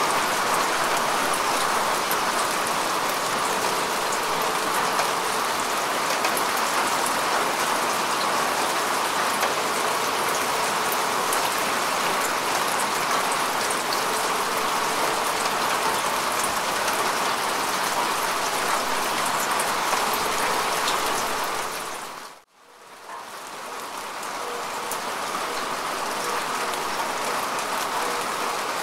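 Steady rain falling on grass and earth, an even hiss with fine scattered drop ticks. About 22 seconds in it fades almost to silence for a moment and swells back up over a few seconds, the sign of a loop splice in the recording.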